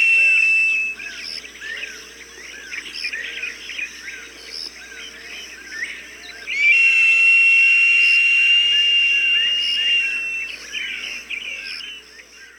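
Recorded falcon cries: a long, steady, high whistled note, then a run of short, hooked chirping calls a few times a second. The long whistle comes back about six and a half seconds in and is the loudest sound, and the calls tail off near the end.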